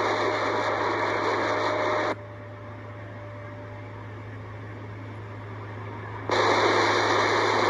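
CB radio static with no voice. A loud rush of hiss cuts off about two seconds in, leaving quieter background hiss, and comes back suddenly about six seconds in, like a carrier keyed without speech. A steady low hum runs underneath.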